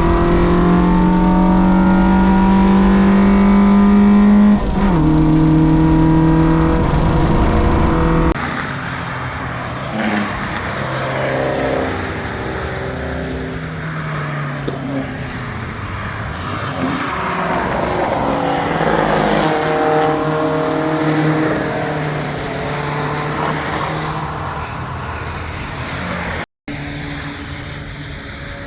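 Race car engines on a circuit. First, one engine runs loud and close, its pitch rising under acceleration, then dropping at an upshift about four and a half seconds in. After an abrupt cut about eight seconds in, several quieter engines come and go as cars pass, their pitch shifting, with a brief dropout near the end.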